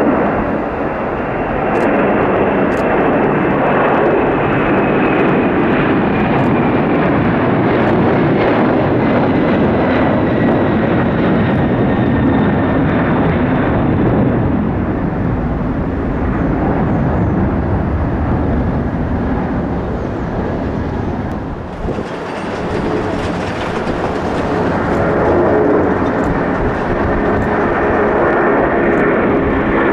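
Jet airliner engines running loud and steady as the aircraft passes, with a high whine that slowly falls in pitch.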